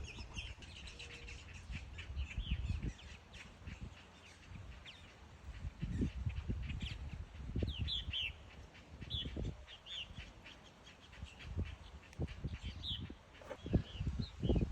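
Purple martins calling around their nest colony: a scatter of short chirps and creaky notes, some in quick pairs, over intermittent low rumbles and knocks.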